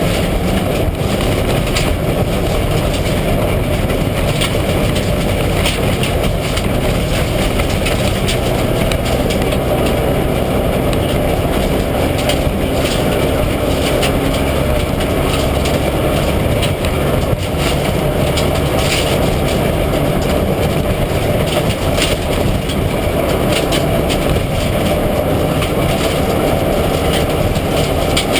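Mitsubishi Lancer Evolution IX rally car's turbocharged four-cylinder engine running hard at speed, heard as a loud, steady din, with scattered sharp knocks from the car and road.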